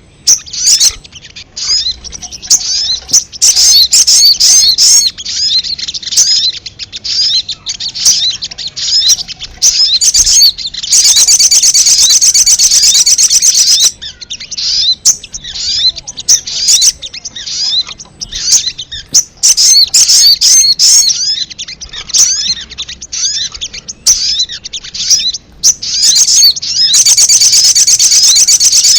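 Sogok ontong (little spiderhunter) lure recording: a loud, busy series of sharp, high chirps. About a third of the way in, the chirps run together into a fast, buzzy chatter lasting about three seconds, and this happens again near the end.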